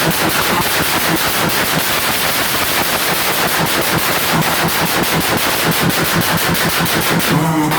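Tuned car's exhaust on a two-step launch-control limiter, firing a rapid, unbroken string of loud pops and bangs like machine-gun fire.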